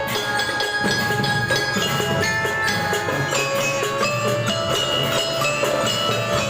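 School drum band playing a tune: struck, ringing melody notes over drum strokes.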